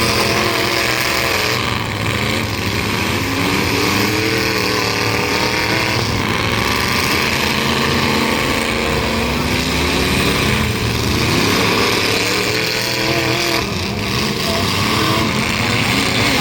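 Several big-truck engines in a demolition derby revving and running together, loud and continuous, their pitches rising and falling as the drivers throttle up and ease off.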